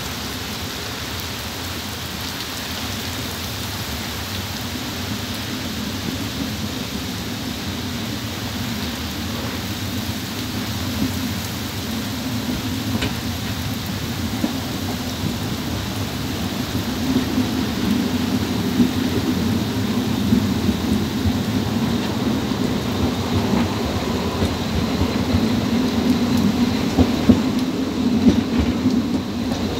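Heavy rain falling on an open-air narrow-gauge railway carriage, with a steady hiss of rain. A low rumble grows louder through the second half as the train gets under way.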